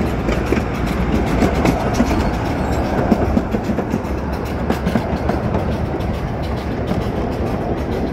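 Miniature amusement-park train rolling steadily along its track, heard from a passenger seat: a continuous rumble with frequent light clicks from the wheels on the rails.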